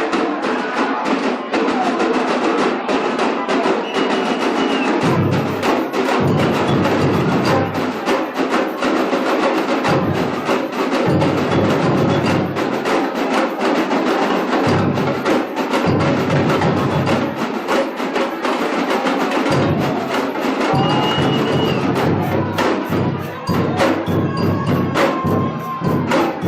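Samba bateria playing a fast groove: dense snare and small-drum strokes throughout, over deep surdo bass-drum strokes that come in and drop out every second or two.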